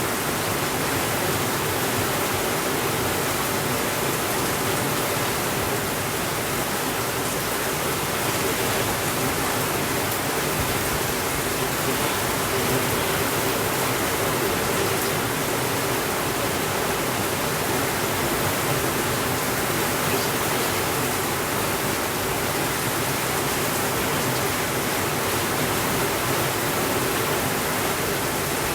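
Steady rainfall, an even hiss that does not change and has no thunder.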